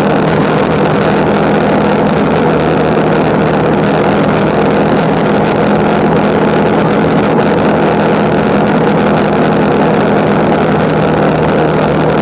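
Motorcycle engine running at a steady, unchanging pitch, heard from the bike with a constant rushing road and wind noise.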